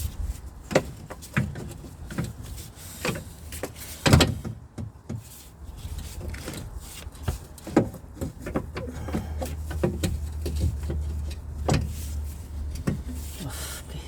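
Irregular knocks and clanks of tools and metal parts as a steering pipe is worked into place on a car's steering rack, the loudest about four seconds in. A low steady hum runs underneath and grows stronger from about eight seconds in.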